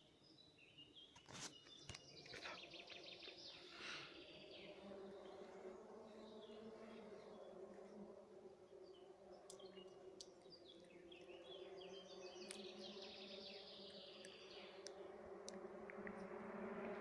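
Quiet outdoor ambience: faint high chirping and buzzing with a few sharp clicks, over a low distant engine hum that slowly grows louder near the end.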